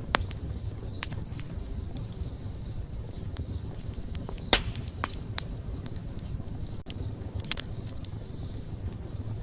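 Wood bonfire crackling: scattered sharp pops and snaps of burning wood over a low, steady rumble, the loudest pop about four and a half seconds in.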